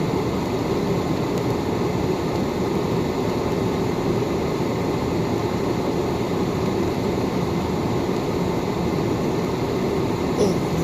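Steady road and engine rumble of a moving car, even throughout.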